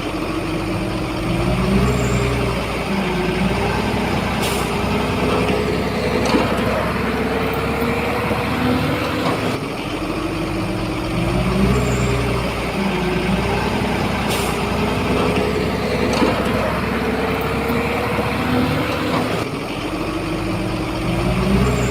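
Shantui bulldozer's diesel engine working under load, its note rising and settling again about every ten seconds, with a couple of brief sharp ticks.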